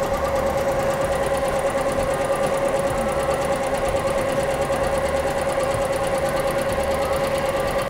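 Embroidery machine running steadily, its needles stitching in a fast even rhythm over a constant hum.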